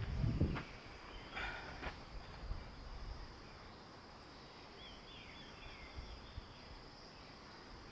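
Quiet outdoor ambience: a steady high-pitched insect drone, with a few short bird chirps about five seconds in and a brief rustle near the start.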